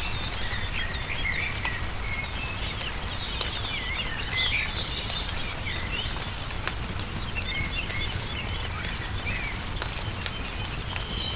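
Small songbirds chirping and twittering in quick, short calls throughout. Scattered sharp pops and crackles of a burning wood fire sound under them, the loudest about three and a half seconds in, over a low steady rumble.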